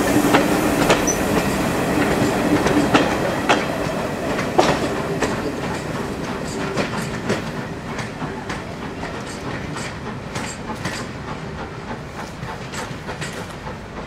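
Coaches of a steam-hauled passenger train rolling away over the rails, the wheels clicking irregularly over the rail joints, fading steadily as the train draws off into the distance.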